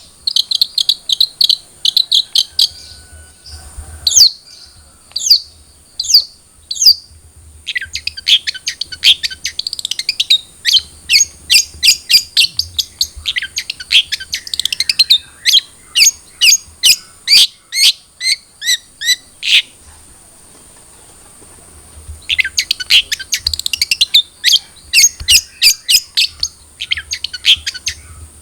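Long-tailed shrike (cendet) singing a rapid, loud series of sharp chirps and trills. The phrases break off about twenty seconds in and start again about two seconds later.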